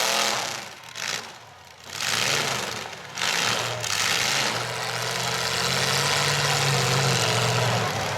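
Demolition derby stock pickup truck engines running and revving. They drop away briefly about a second in, then a steady engine note holds through the second half.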